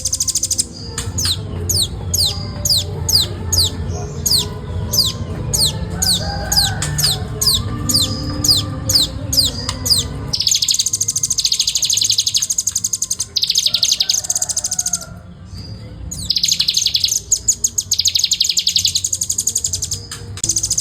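Nuthatch song: a run of high whistled notes, each sliding downward, about three a second. From about halfway it changes to bursts of a very fast, tightly packed trill, the non-stop 'ngebren' song that keepers prize, with a brief pause near the three-quarter mark. A low rumble runs under the first half.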